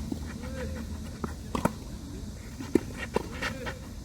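Tennis rally: sharp knocks of a ball off racket strings and court, about a second apart, with a few short squeaks.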